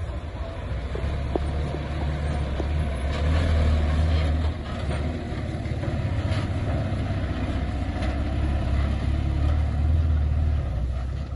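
Heavy diesel construction machinery running, with a deep engine rumble that swells and eases as it works, and a few light clicks.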